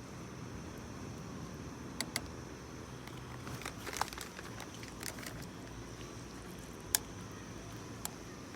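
Scattered light clicks and knocks, about half a dozen, the sharpest one about seven seconds in, over a steady low background noise.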